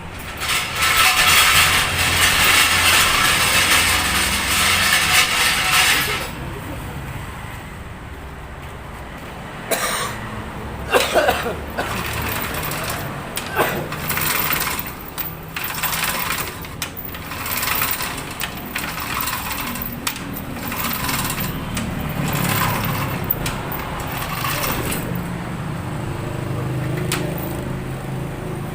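Workshop noise: a loud, rapid mechanical rattle for about six seconds, then many scattered metal clanks and knocks over a low steady hum.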